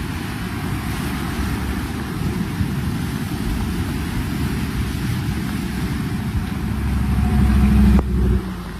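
An engine running under a dense rushing rumble. It grows louder near the end, then cuts off abruptly.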